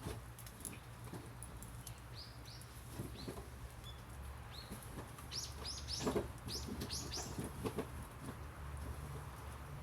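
Wood fire crackling with scattered sharp pops, while a small bird gives short, high, falling chirps in a few quick runs.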